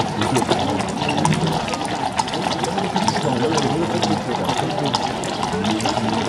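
Crowd murmur: many voices talking at once in a steady babble, with scattered sharp clicks and knocks.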